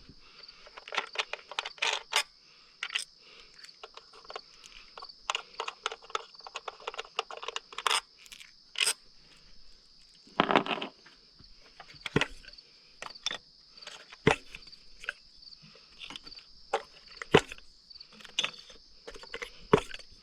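Irregular clicks, clinks and scrapes of hand tools and metal parts being handled while ignition coils are pulled for a spark plug change, over a steady high-pitched chirring of crickets.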